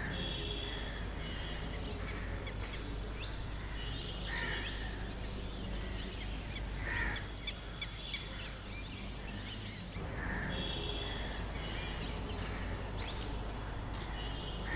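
Many birds chirping and calling, with quick short chirps and a few louder calls, over a steady low background rumble.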